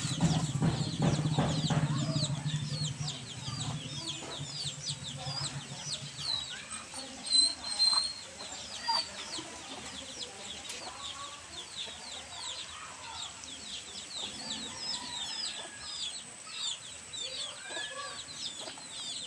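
Chickens clucking amid many short, high chirps. A low hum fades out about six seconds in, and a steady high-pitched tone runs underneath.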